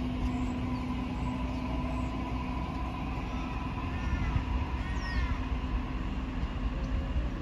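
Suburban passenger train running, heard from inside the carriage: a steady low rumble with a constant hum, and a few short rising-and-falling squeaks about four to five seconds in.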